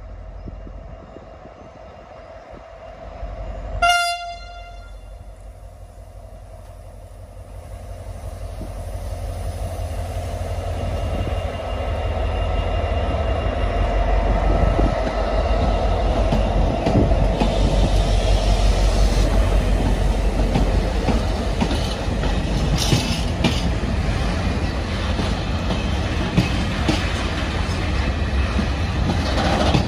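Diesel freight locomotive sounds one short horn blast about four seconds in, then passes hauling a container train: its engine and rumble build to their loudest as it goes by, followed by the steady rumble and clatter of the loaded container wagons rolling past.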